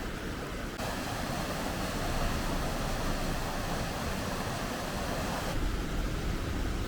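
Fast-flowing river rushing, a steady hiss that swells fuller about a second in and drops back near the end, over a low rumble.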